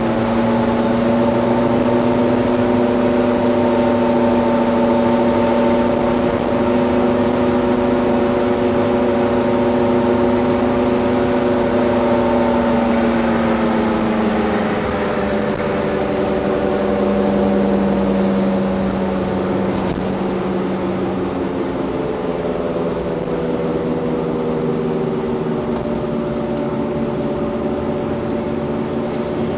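Vehicle engine running with a steady droning hum that drops slightly in pitch about halfway through and again later, getting a little quieter in the second half.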